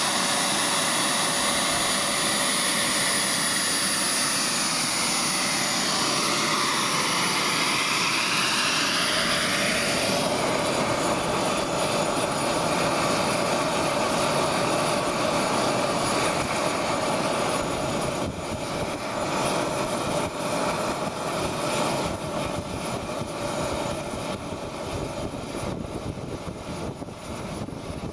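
KJ-66 model jet turbine running: a loud, steady jet roar with a high whistle. About two-thirds of the way through it gets quieter and less even.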